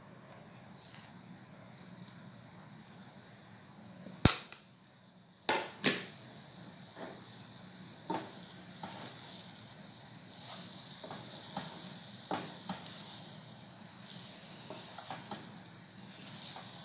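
Green chillies frying in oil in a pan while gram flour is stirred in with a spatula: a sizzle that grows from about six seconds in, with the spatula scraping and tapping against the pan. A sharp knock about four seconds in, then two softer knocks over the next two seconds.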